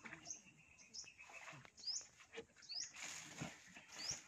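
A bird repeating a short, high, rising chirp about once a second, with a brief rush of hiss about three seconds in.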